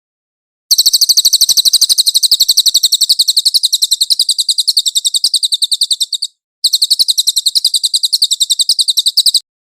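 Cililin songbird singing a fast, even trill of high notes, about seven notes a second, breaking off briefly near the middle and then resuming.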